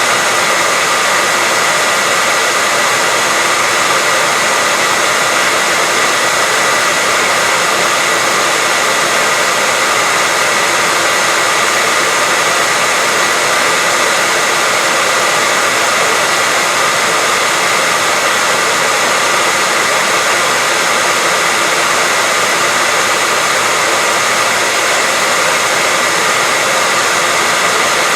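Hair dryer running steadily: an even, unchanging rush of air with a faint steady whine from the motor.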